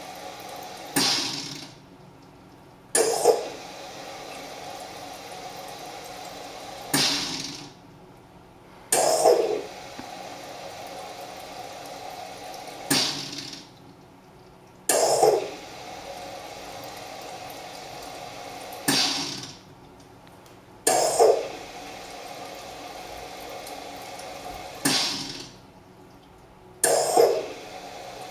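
Carimali Gusto automatic coffee machine flushing fresh water through its milk foaming device during the rinse cycle. The flow comes in sudden surges, pausing briefly between them, in a pattern that repeats about every six seconds.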